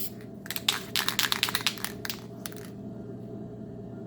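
Short bursts from an aerosol can of flat black spray paint, several quick sprays in the first couple of seconds as a test pattern, then stopping, over the steady hum of an exhaust fan.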